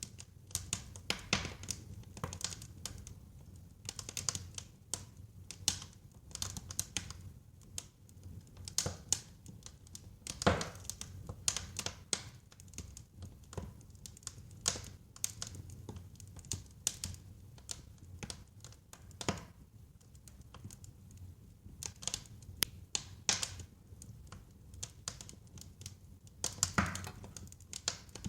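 Wood fire in a fireplace crackling: irregular clusters of sharp crackles and pops over a faint low rumble of the burning logs, with a few louder pops now and then.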